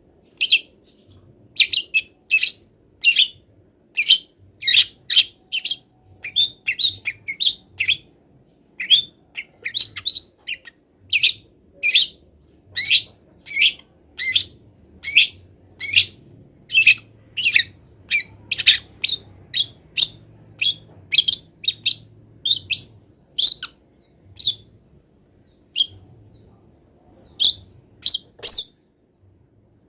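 Long-tailed shrike (cendet) singing a fast series of short, sharp, high chirps, about two a second, with a brief pause about three-quarters of the way through. The song is full of mimicked calls of wild birds.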